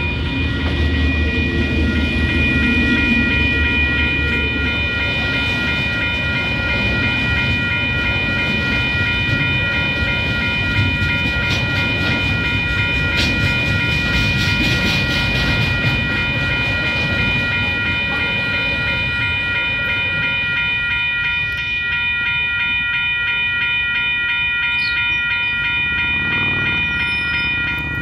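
Level crossing alarm bells ringing steadily throughout as a freight train passes: the low engine sound of a KiwiRail DL-class diesel-electric locomotive is loudest in the first few seconds, then a long rake of container wagons runs by with wheels clicking over the rail joints, most clearly in the middle.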